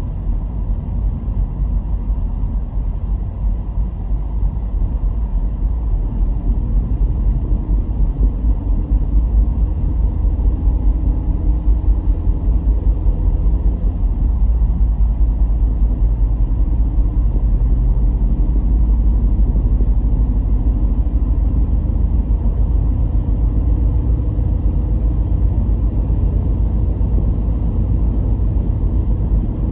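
A car driving along a road: a steady low rumble of engine and tyre noise, growing somewhat louder over the first ten seconds or so, then holding steady.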